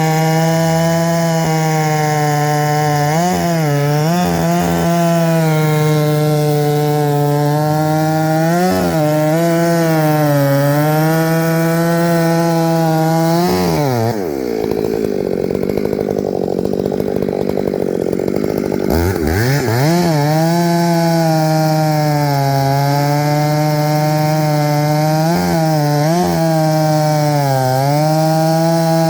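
Two-stroke chainsaw running at full throttle, cutting poplar wood, its pitch dipping briefly several times as the chain bogs in the cut. About halfway through, the throttle is let off and the engine drops to a low idle for about five seconds, then revs back up and cuts on.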